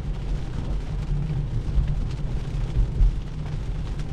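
Low, uneven rumble of tyre and road noise inside a Tesla Model 3's cabin, driving on a rain-soaked road, with a faint hiss of spray above it.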